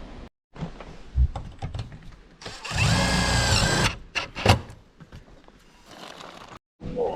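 Power drill running in one burst of about a second and a half, its pitch shifting as it works, likely driving a screw into the steel. A few knocks of handling come before and after it.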